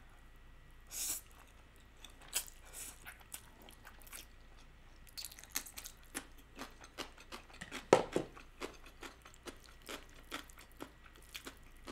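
Close-miked eating of spicy stir-fried instant noodles: a brief slurp about a second in, then chewing with soft wet mouth clicks and smacks, one louder about eight seconds in.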